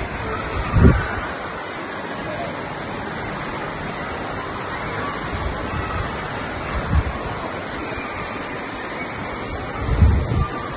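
Heavy rain falling, a dense steady hiss. Three brief low thumps stand out, the loudest about a second in and near the end.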